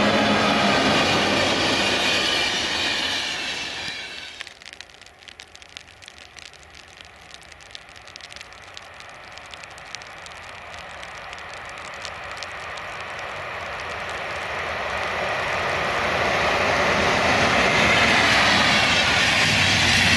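Electric locomotive-hauled passenger train passing close with a steady rush of wheel and coach noise, which cuts off sharply about four seconds in. A second electric train is then heard far off and grows steadily louder as it approaches and passes, loudest near the end.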